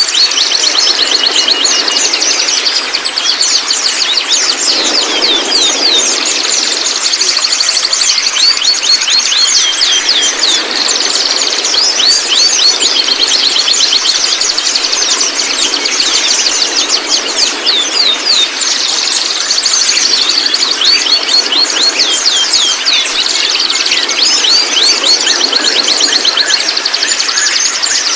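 Juvenile white-rumped shamas chattering: a continuous, dense stream of rapid, high, down-slurred notes with a steady high whistle underneath.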